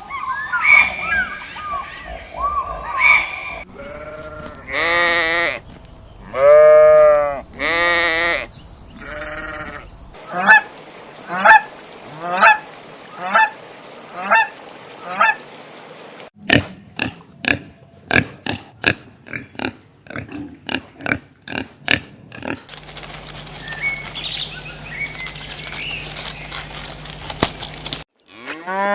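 A string of separate recorded animal calls. First come chirping calls, then several loud drawn-out calls from about four seconds in, then shorter calls at about two a second. A run of rapid clicks follows, then a noisy stretch with faint calls.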